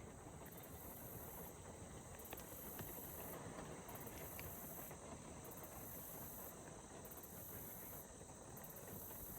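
Faint ambient background with a few soft ticks and a very high hiss that pulses on and off about once a second, like distant insects chirping.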